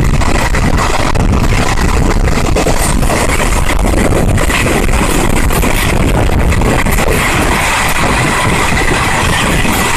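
Steady running noise of a moving passenger train: a loud, even rumble with a rush of air.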